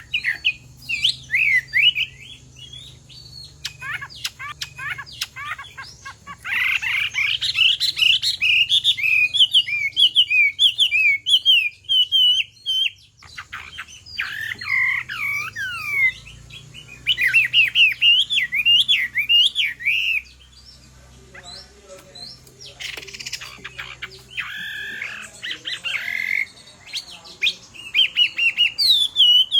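Chinese hwamei singing in bouts of fast, varied whistled phrases that go up and down, with short pauses between the bouts.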